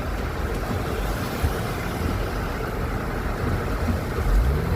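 Engine and road noise from inside a moving car, a steady rumble, with the engine note rising a little past four seconds in and then holding.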